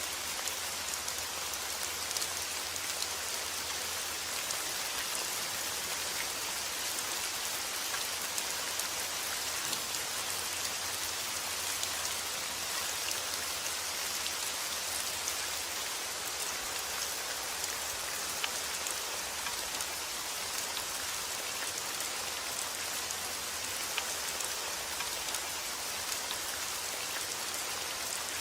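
Steady rain falling, an even hiss of many drops with scattered small drop ticks.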